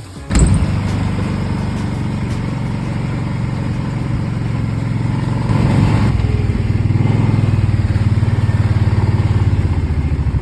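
A small vehicle engine starts suddenly just after the beginning and then runs steadily at a low idle. It picks up a little about halfway through.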